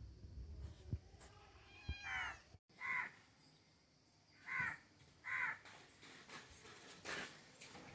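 Cat meowing repeatedly: about five short meows roughly a second apart, the first one longer with a falling pitch.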